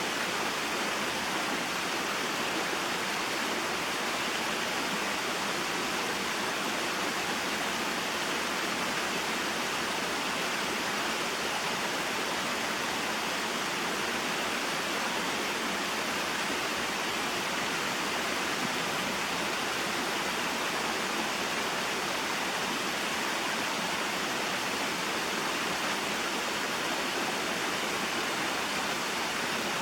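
Small mountain waterfall and stream: water splashing and flowing over rocks in a steady, even rush.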